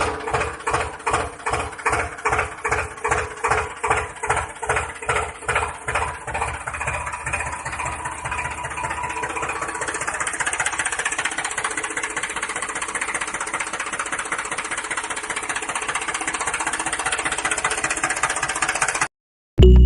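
Small motor-driven machine, likely the homemade model tractor, running with a rhythmic clatter of about three beats a second that quickens and smooths into a steady buzz. It cuts off suddenly near the end.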